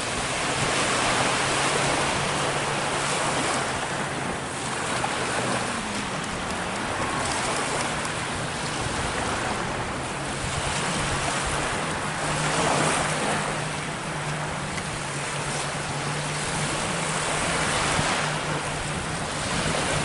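Surf washing in, the noise swelling and easing every few seconds, with a steady low hum from a watercraft engine running beneath it.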